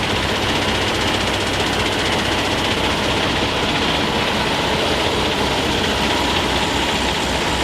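Kenworth T880 hook truck's heavy diesel engine idling steadily, with a low even throb.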